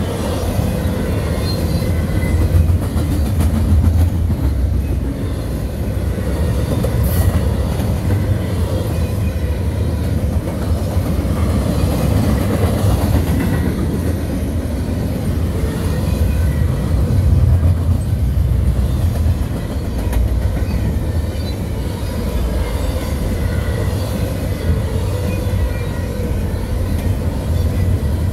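Double-stack container well cars of a CSX freight train rolling past: a steady, heavy rumble of steel wheels on rail, with faint thin squealing tones above it.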